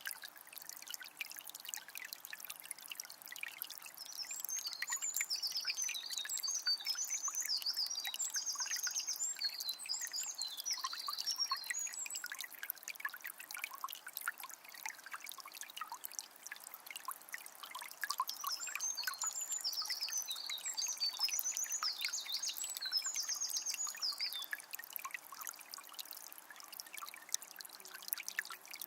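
Small spring trickling and splashing steadily. A songbird sings a long, high, rapidly varied song twice over it.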